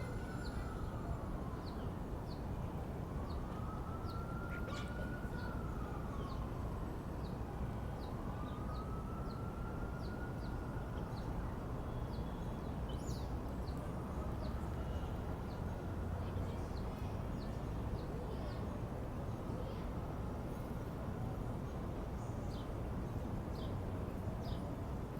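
A distant siren wailing in slow rises and falls about every three and a half seconds, fading away, over a steady low outdoor rumble. Short sharp ticks or chips come at irregular intervals of about a second.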